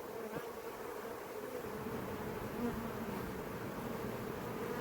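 A mass of honey bees from an opened hive buzzing in a steady, droning hum that grows slightly louder. The bees are stirred up and defensive at the hive being opened, "not very happy".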